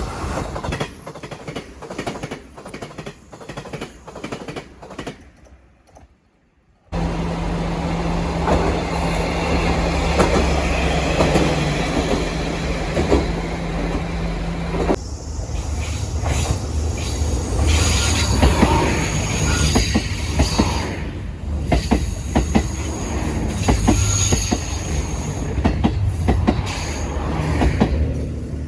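Trains passing over rail joints, wheels clacking in repeated clusters as each bogie crosses a joint. The sound fades almost to nothing about six seconds in. Then another passing train starts abruptly, with a steady low hum under the clacking for several seconds.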